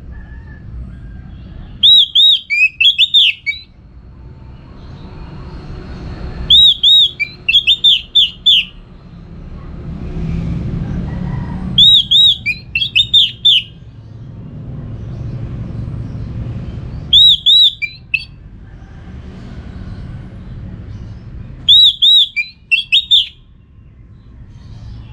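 Orange-headed thrush (anis merah) singing the same short, fast phrase five times, about every five seconds. Each phrase is a couple of quick high notes followed by a tumbling run of falling notes, over a low background rumble.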